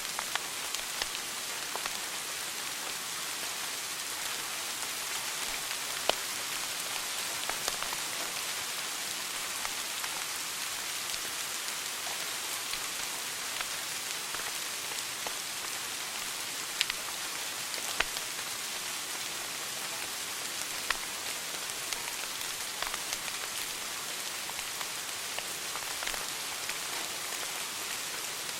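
Wood fire burning in a fireplace: a steady crackling hiss with scattered sharp pops, a few of them louder than the rest.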